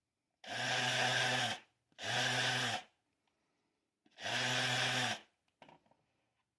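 Small handheld electric power tool run in three short bursts of about a second each, its motor spinning up and winding down each time, followed by a few faint taps.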